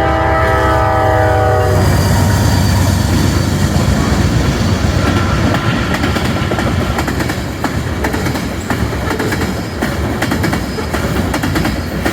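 Train horn sounding a chord of several tones that cuts off about two seconds in, then the train passing with its wheels clattering and clicking along the rails.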